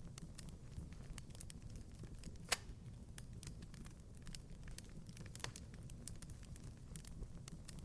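Wood fire crackling in a fireplace: scattered small pops and snaps over a low, steady rumble, with one louder pop about two and a half seconds in.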